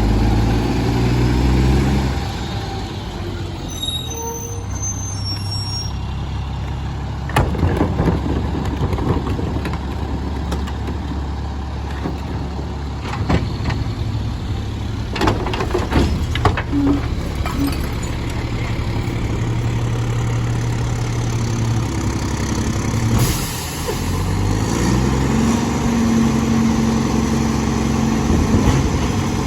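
Mack LE garbage truck with a McNeilus body: diesel engine running, with several sharp clanks and bangs in the middle, typical of carts being tipped into the hopper. Air brakes hiss once about two-thirds through, then the engine's revs climb near the end.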